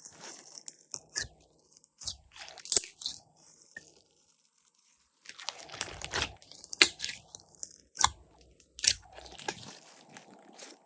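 Glossy slime being squished and kneaded by hand, giving irregular wet clicks, pops and crackles, with a short pause about four seconds in.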